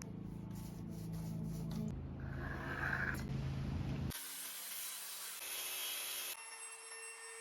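Saw cutting thin wood wall lining, a steady rasping run with a low motor-like hum, stopping abruptly about four seconds in. After that come short, quieter stretches with thin, steady high tones.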